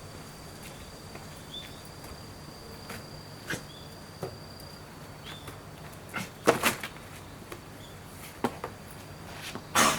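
Several scattered knocks and clatters, the loudest about six and a half seconds in and just before the end, over a faint steady high-pitched whine that fades out about halfway through.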